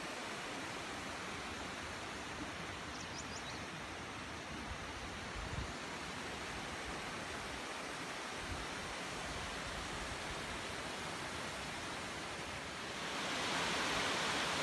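Steady outdoor rushing noise that grows louder and brighter near the end, with a few faint high chirps about three seconds in.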